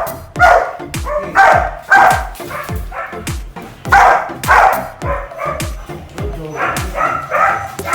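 Belgian Malinois barking in a series of loud, short barks, about one every half second to a second, with pauses near the middle. Background music with a steady beat plays underneath.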